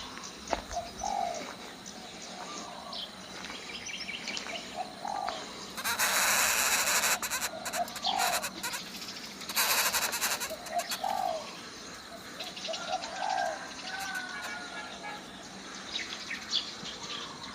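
Coucal calling with short, low, curved notes repeated every few seconds, broken by two louder rushing noises about six and ten seconds in.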